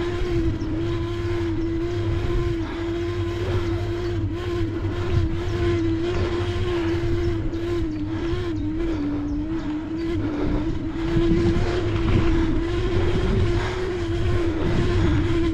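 E-bike's electric assist motor whining at one steady pitch while it works hard on a steep climb, over a low rumble.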